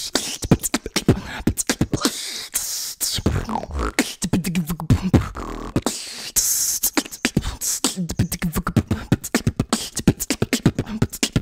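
Beatboxing: a fast, continuous run of mouth-made drum sounds (kick, snare and hi-hat clicks), with short held low hummed notes woven in several times.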